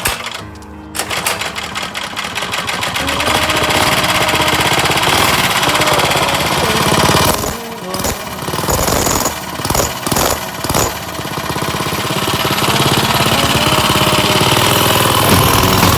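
Mini bike's small engine running hard under throttle. It rises over the first few seconds, then cuts back and picks up again several times in the middle.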